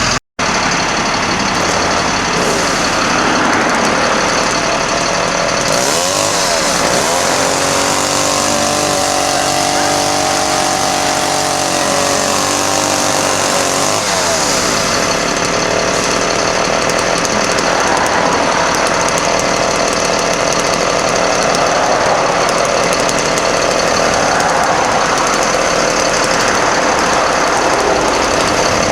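Caterpillar diesel engine of a 1991 GMC Topkick bucket truck running loudly with a dense clatter close up. About six seconds in its pitch climbs as it speeds up, and it settles back down around fourteen seconds in.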